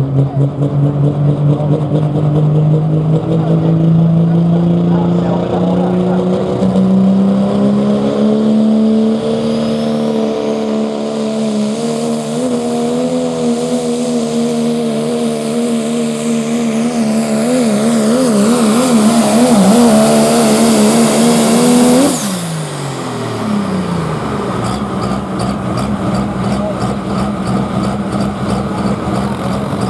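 Pro Stock diesel pulling truck engine at full throttle under load, its pitch climbing steadily for about twelve seconds and then holding high, with a rapid wavering for a few seconds. About 22 seconds in the throttle is let off, and the engine winds down to a lower, steadier run.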